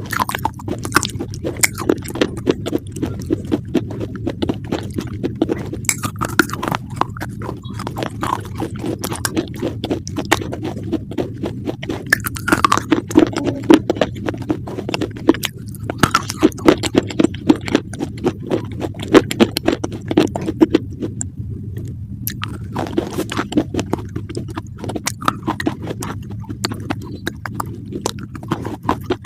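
Close-up crunchy chewing: many quick crisp crunches in a continuous run, with a brief let-up about a minute-third in, near 21–22 seconds.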